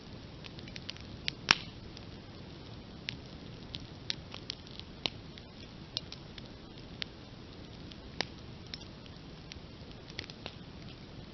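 Open campfire crackling: irregular sharp pops and snaps over a steady low hiss, with the loudest pop about a second and a half in.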